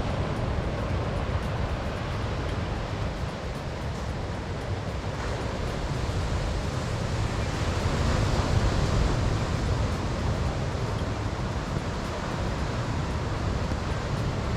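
Ocean surf washing onto a beach, a steady rushing noise that swells about halfway through, with wind buffeting the microphone.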